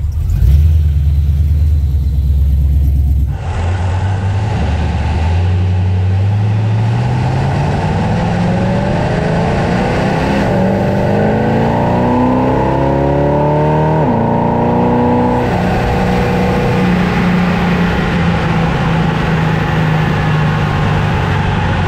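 Fox-body Ford Mustang engine and exhaust under way on a drive. The engine note climbs steadily as the car accelerates, drops suddenly about fourteen seconds in, then holds steady at cruising speed.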